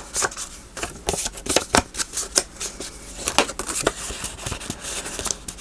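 Paper and card being handled and worked at a craft table: an irregular run of short dry clicks, taps and scratchy strokes, with a brief rustle about midway.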